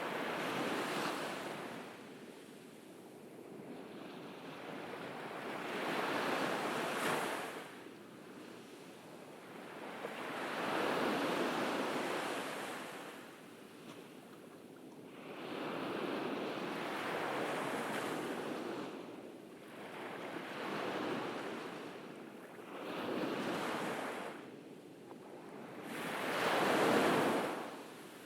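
Ocean waves breaking and washing up a beach, in slow surges of hiss that swell and fade about every four seconds.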